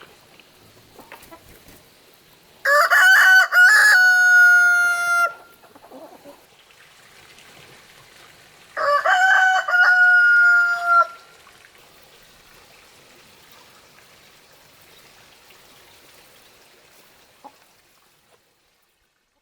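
A rooster crowing twice, about six seconds apart, each crow a choppy start drawn out into a long held note.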